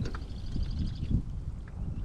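Wind buffeting the microphone, with a rapid high-pitched chattering series of notes in the first second.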